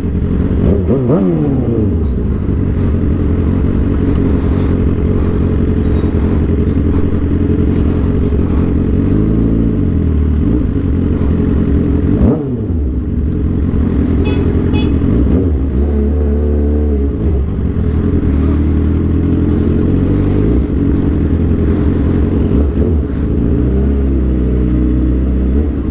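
Suzuki GSX-R 750's inline-four engine heard on board while riding, its pitch falling and rising again several times with the throttle, with a sharp dip and climb about twelve seconds in.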